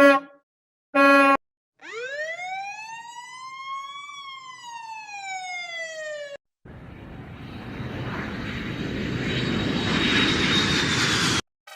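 Two short horn toots, then a siren winding up and back down in one slow wail. It is followed by a rushing noise that grows steadily louder, with a faint high whine, and cuts off abruptly near the end.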